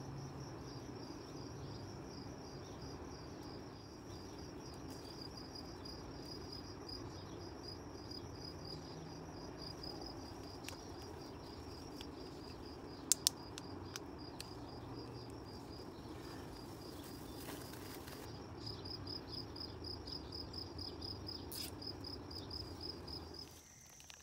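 Crickets chirping in a steady, fast pulsing trill, with two sharp clicks about halfway through.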